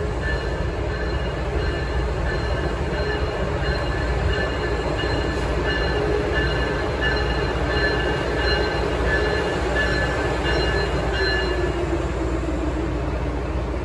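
Amtrak Acela high-speed trainset rolling slowly into a station platform: a steady low rumble with high-pitched squealing that comes and goes as it slows. Near the end a lower tone slides down in pitch.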